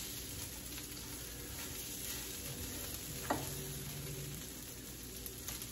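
Breaded chicken strips sizzling steadily in oil in a skillet as they are turned, with a single click about three seconds in.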